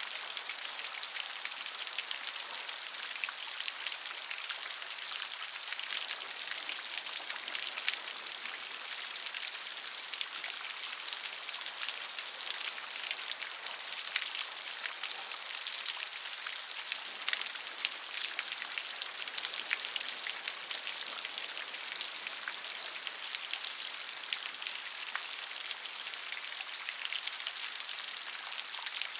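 Steady rainfall, a continuous hiss dotted with the ticks of individual drops landing close by.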